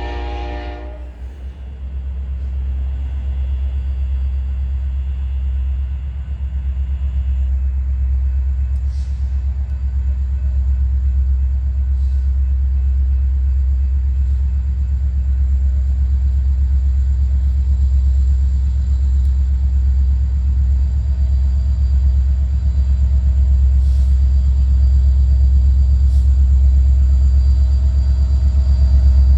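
A train horn's chord cuts off about a second in, followed by a steady low rumble of a passing train that grows slightly louder, with a few faint clicks.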